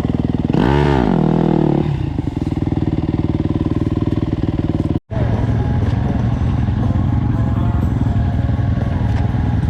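Four-stroke dirt bike engine revving up and back down once, then running steadily. The sound breaks off for an instant about five seconds in, and a steadier, lower engine note follows.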